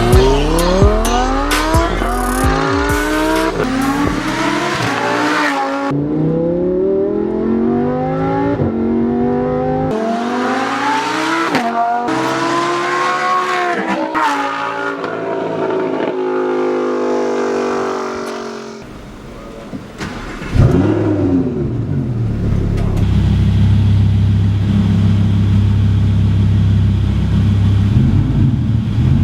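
Lamborghini Huracán LP610-4's V10 through an Armytrix valved exhaust, accelerating hard with the pitch climbing and dropping back at each of several upshifts. It then eases off, gives one short rev about twenty seconds in, and settles to a steady low drone.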